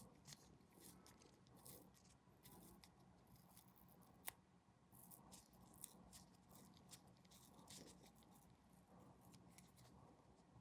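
Faint small clicks and scratchy scrapes of small plastic model-kit parts being handled and worked by hand, with one sharper click about four seconds in, over a low steady hum.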